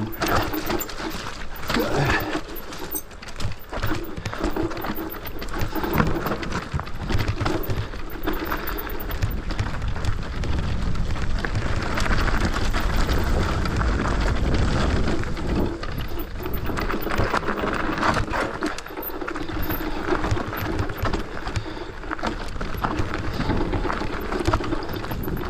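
Mountain bike ridden fast down a dry, dusty, rocky trail: tyres crunching and skidding over dirt and stones, with constant rattling knocks from the bike over the bumps.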